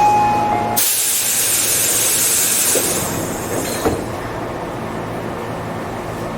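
Tobu 8000 series commuter train: a brief high squeal, then a sudden loud hiss of compressed air from the train's pneumatic system that fades over about three seconds, with a sharp click near the end, leaving a steady low hum.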